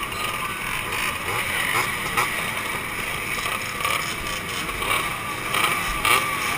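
Two-stroke motorcycle engines running, with engine pitch rising and falling as they are revved now and then.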